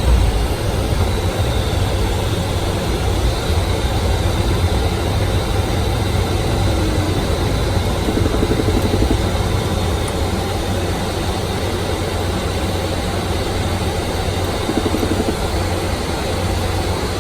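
Dassault Falcon 50 business jet heard from inside in flight shortly after takeoff: a steady, unbroken low rumble with a hiss from its three Garrett TFE731 turbofan engines and the airflow over the airframe.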